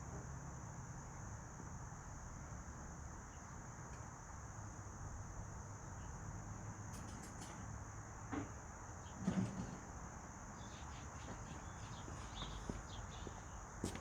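Steady high-pitched insect chirring over a low background hum, with a couple of short knocks about eight and nine seconds in.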